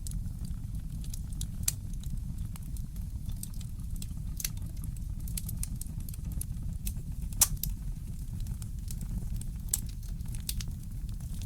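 Fire crackling in a fireplace: scattered sharp pops and snaps over a steady low rumble, with one louder pop a little past halfway.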